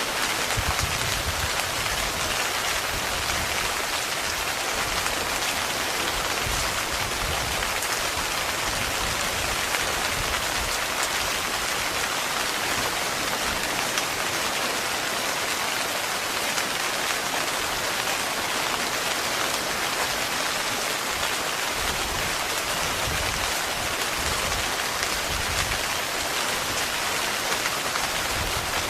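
Heavy, steady rain drumming on a tent's fabric, a dense even hiss of drops.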